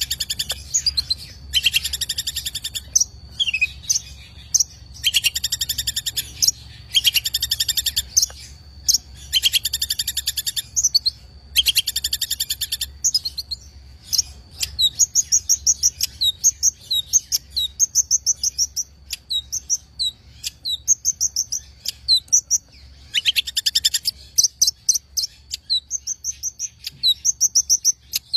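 Long-tailed shrike (cendet) singing: harsh, rapid scratchy chattering phrases about a second long alternate with short clear whistled notes. From about halfway through it shifts to runs of quick repeated high notes.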